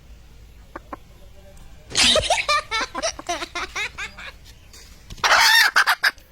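Chicken squawking and clucking: a rapid run of loud calls about two seconds in, then one louder, harsh squawk near the end.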